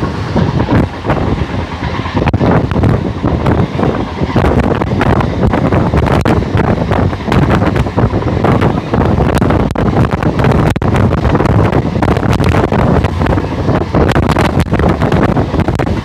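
Wind buffeting the microphone at the open door of a moving local passenger train, over the steady rumble of the coaches running along the track, with a constant run of quick clatters.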